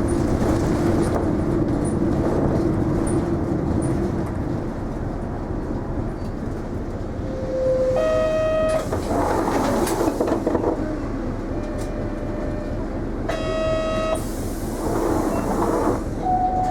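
Isuzu Erga city bus heard from inside the cabin, its engine and road noise droning steadily. A short electronic beep sounds about eight seconds in and again about five seconds later, and each is followed by a burst of air hiss.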